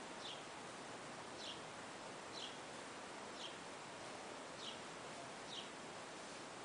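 A bird calling, a short high chirp repeated about once a second, over a steady background hiss.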